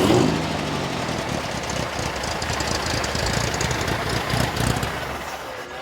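Classic car's rebuilt engine running with a brief rev near the start, then carrying on as its sound slowly fades.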